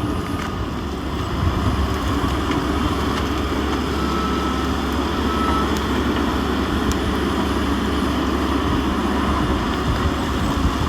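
A heavy engine running steadily with a deep, even rumble.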